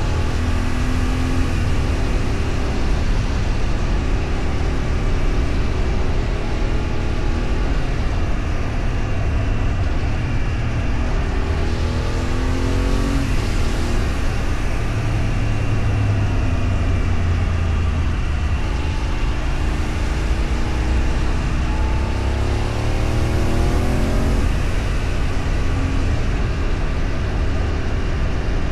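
Vehicle engine running on the road under a steady low rumble of road and wind noise. The engine note rises twice as it accelerates, about twelve seconds in and again around twenty seconds in.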